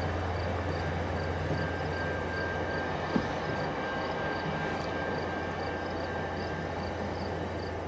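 VIA Rail passenger train's diesel locomotives working as the train pulls away: a steady low rumble with rail noise. A level-crossing bell rings about three times a second, and a single sharp click comes about three seconds in.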